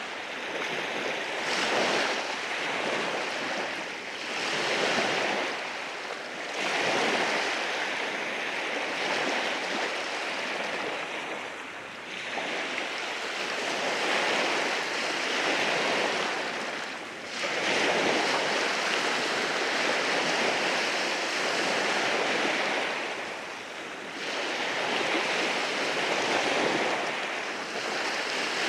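Waves breaking and washing in over rocks at the shore, a continuous rushing of surf that swells and eases every few seconds.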